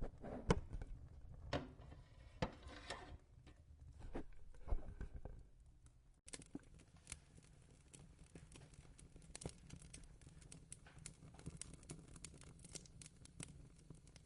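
Fire crackling with many small irregular pops and snaps. In the first half it is mixed with a few knocks and a papery rustle, which stop at a sudden cut about six seconds in.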